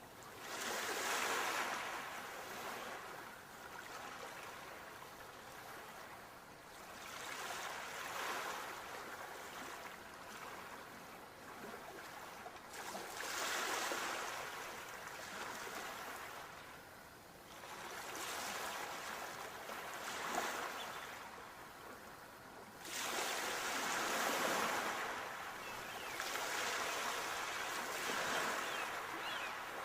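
Sea waves breaking and washing back, a new surge swelling up every five seconds or so.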